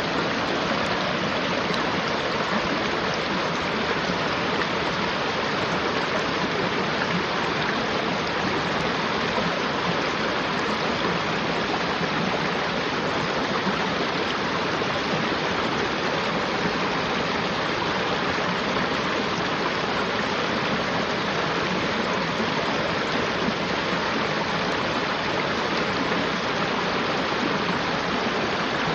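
A flowing river: steady, unbroken rushing of water.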